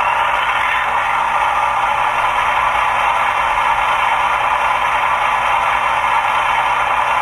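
HO scale model of a GE ET44AC locomotive running, giving a steady, even hum that neither rises nor falls.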